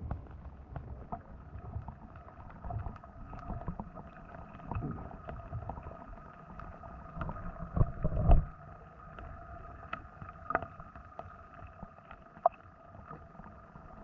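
Underwater sound picked up by a GoPro submerged in shallow pond water: a faint steady hum with scattered muffled knocks and short clicks, and a louder thump about eight seconds in.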